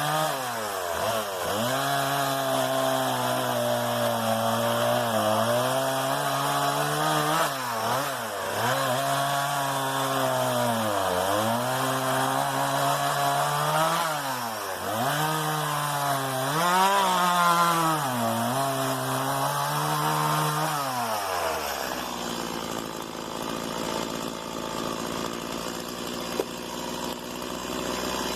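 Stihl MS 170 two-stroke chainsaw running at high revs while cutting wood, its pitch sagging and recovering again and again as the chain bites. About 22 seconds in it drops back to idle.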